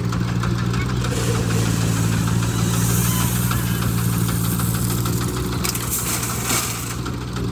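Diesel engine of heavy work machinery running steadily, with a few sharp knocks about six seconds in.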